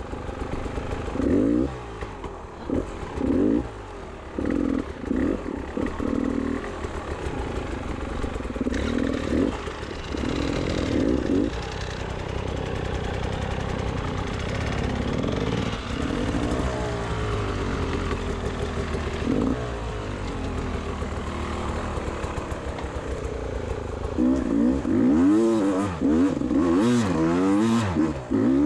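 Beta 300 RR two-stroke enduro bike engine revving in short repeated bursts, then running more steadily, then blipped up and down quickly near the end.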